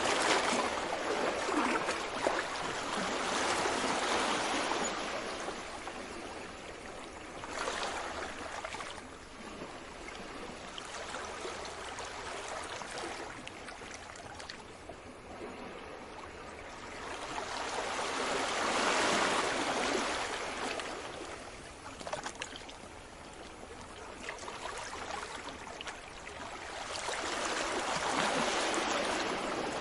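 Sea waves washing in and out on a shore, a steady hiss of surf that swells and ebbs in slow surges every several seconds.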